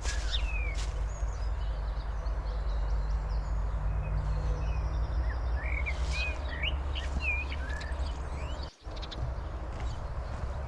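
Small songbirds chirping in a forest: many short rising and falling calls, scattered and overlapping, over a steady low rumble. The sound drops out for an instant about nine seconds in.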